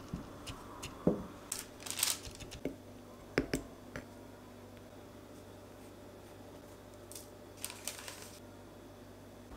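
Kitchen handling sounds while making cookies: scattered light knocks and clicks with short rustles, busiest in the first four seconds and again near the end.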